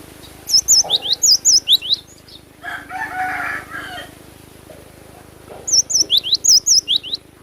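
Cinereous tit (gelatik batu) singing: two loud bursts of quickly repeated high, sharp whistled notes, about six to eight notes each, a few seconds apart. A lower, rougher sound about a second long comes between the bursts.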